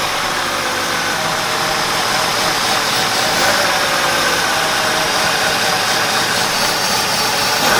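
BMW E36 engine idling steadily, heard close up from beneath the front of the car, with a steady high whine over the running.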